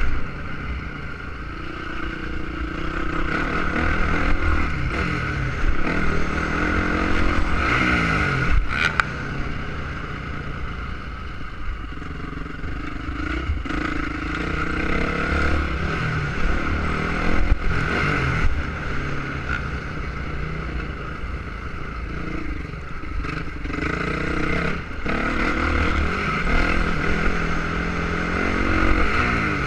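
Motocross motorcycle engine being ridden hard, its pitch climbing and dropping again and again as the rider opens and closes the throttle.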